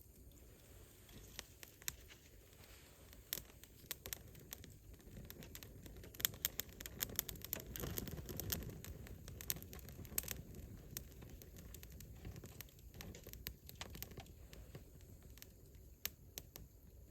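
Wood campfire crackling, with many sharp irregular pops and snaps over a low rush of flame that swells about halfway through.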